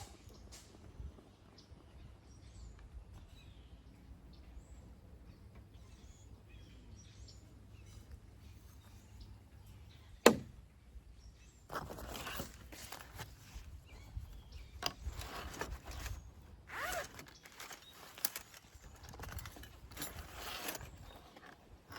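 Faint bird chirps over a quiet outdoor background, then a single sharp knock about ten seconds in. After it come repeated bursts of rustling and scraping from camp cooking gear or packaging being handled.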